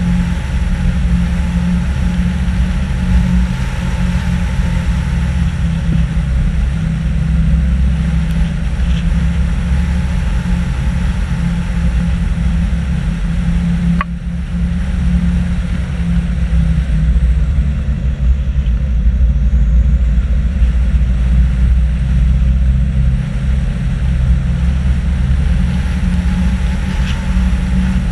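Nissan Patrol GR 4x4 driving at a steady pace, its engine and drivetrain making a continuous low drone with road and wind noise on top, picked up by a camera mounted on the bonnet. A single short click and brief dip about halfway, where the footage is cut.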